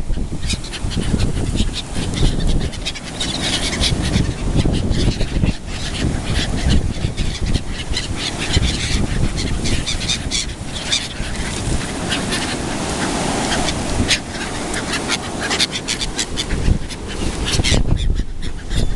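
A large flock of gulls calling and squabbling over bread, many short harsh cries overlapping, over a steady low rumble.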